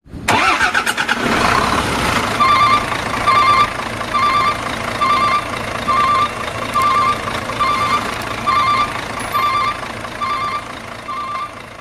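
Truck engine revving up, followed by a reversing alarm beeping steadily a little more than once a second over the running engine.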